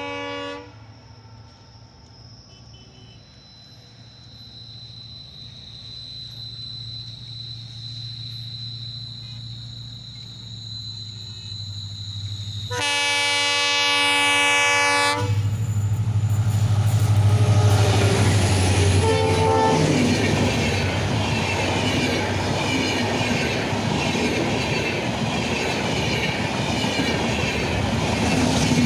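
Indian Railways passenger express approaching round a curve and passing close by. A short horn blast at the start, then a long horn blast of about two seconds midway as the locomotive nears. The rumble and clickety-clack of the coaches going past follow, with high squealing from the wheels on the curve.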